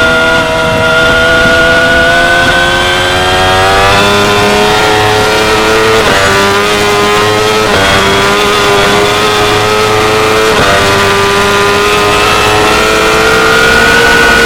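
2016 Yamaha R6's 599 cc inline-four engine running at high revs on track, its note climbing slowly, with three brief breaks about six, seven and a half and ten and a half seconds in before climbing again near the end.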